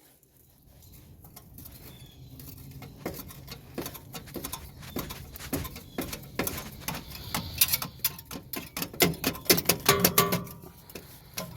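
Rapid, irregular metallic clicks and scraping from work on the last bit of a rusted exhaust elbow under the car. Faint at first, the clicks get busier and louder toward the end.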